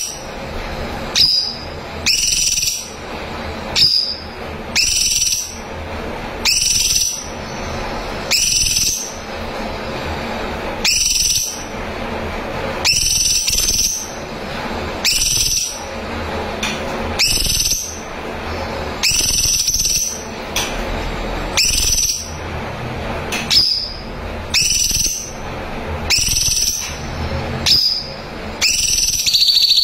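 Cucak cungkok giving short, high whistled calls over and over at a steady pace of about one a second, with a steady hiss behind them.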